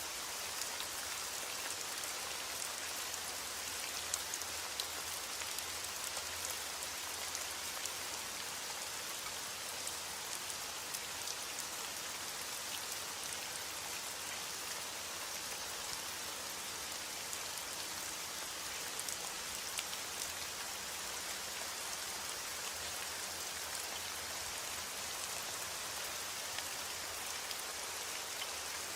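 Steady rainfall: an even hiss of rain with many sharp little ticks of single drops striking a surface.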